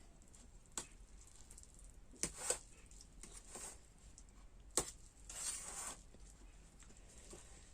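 Mouth sounds of someone eating Maggi noodles: scattered short clicks and smacks, and one longer noisy sound about five and a half seconds in.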